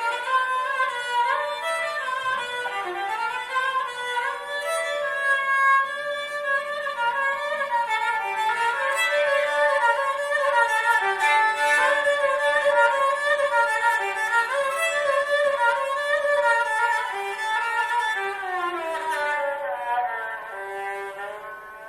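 Four-string Cretan lyra, tuned G-D-A-E, bowed in a running melody over a steady held note. The playing dies away near the end.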